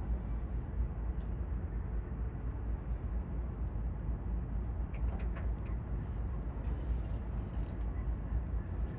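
Steady low rumble of outdoor ambience, with a few faint ticks about five seconds in.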